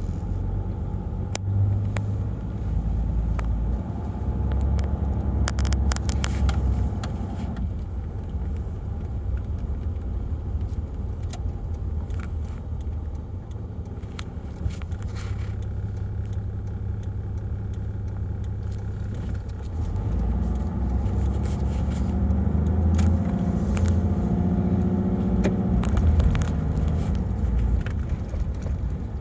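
Turbo diesel engine of a 1995 Land Cruiser pulling on the road, its low drone shifting in pitch and loudness a few times as the engine speed changes. Light clicks and rattles, like keys jangling, run over the engine sound.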